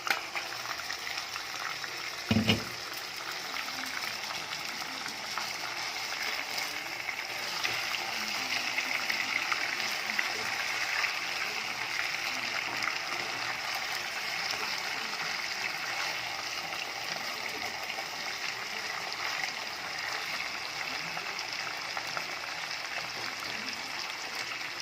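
Chicken pieces sizzling steadily in hot mustard oil in a karai, with a single thump about two and a half seconds in.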